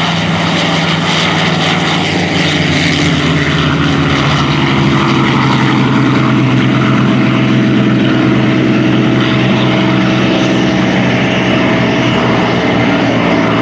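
Propeller-driven World War II warbird's piston engine running with a steady, loud drone.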